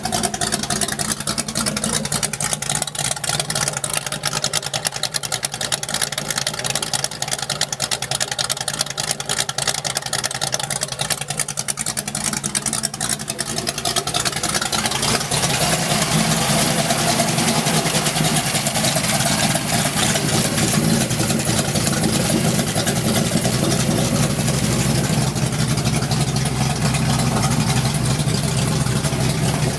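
Freshly installed Oldsmobile 350 V8 running steadily, getting louder about halfway through.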